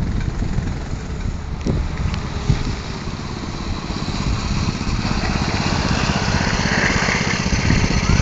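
Mini bike's 6 hp Predator single-cylinder small engine running steadily during a ride, growing louder from about five seconds in.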